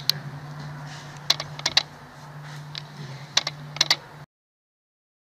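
Sharp, irregular clicks and taps of a kitten batting a small ball on a hard floor, some in quick pairs, over a steady low hum. The sound cuts off suddenly near the end.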